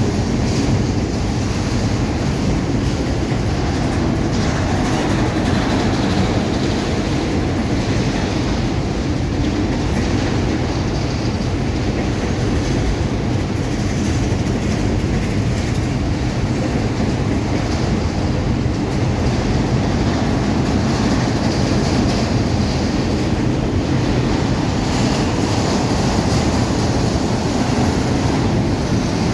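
Freight train's wagons rolling past with a steady rumble of steel wheels on the rails.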